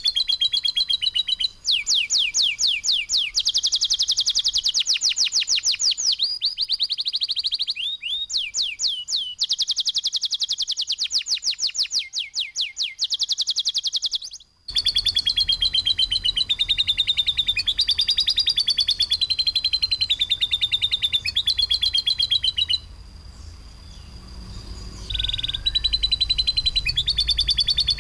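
Recorded songbird song made of fast, high-pitched trills: rapid strings of repeated chirps and sweeping notes, switching from one trill type to another every few seconds. About halfway through there is a brief break, after which a low hum lies under the song, and the song goes quieter for a couple of seconds near the end.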